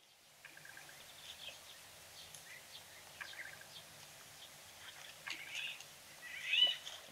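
Small birds chirping now and then over faint outdoor background noise and a faint steady low hum, with one louder rising chirp near the end.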